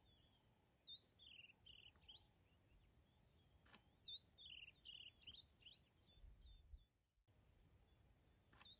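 Faint songbird song over quiet outdoor background: twice, a high sweeping note is followed by a quick run of chirps. A single sharp click comes just before the second phrase.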